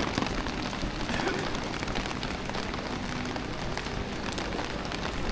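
Steady rain falling on a city street, an even hiss dotted with many small drop ticks.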